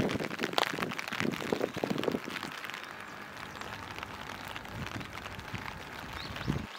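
Rain falling on a wet street: a dense patter of drops, louder and busier for the first two seconds, then a steadier, softer hiss.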